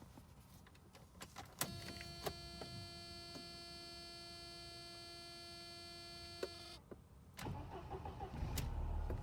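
A few clicks, then a steady high tone for about five seconds that cuts off. About seven seconds in, the Mercedes 190E 2.3's four-cylinder engine cranks and catches on a cold start, running louder near the end.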